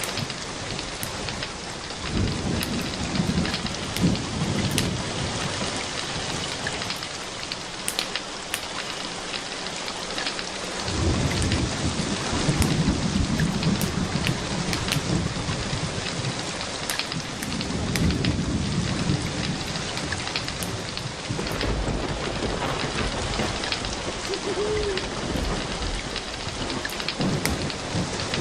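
Steady rain with several long, low rolls of thunder rising and fading through the stretch, and scattered sharp clicks over the top.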